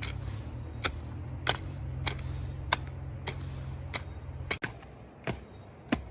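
Sharp clicks or taps, roughly every half second to second, over a low steady hum that cuts off abruptly about four and a half seconds in.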